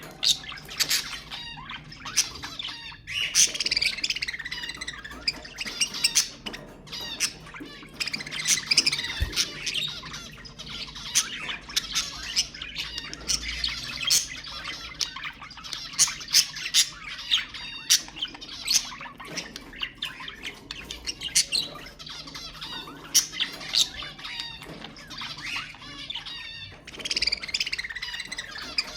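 Budgerigars chattering and warbling, with many sharp squawks and chirps, with brief lulls about three seconds in and near the end.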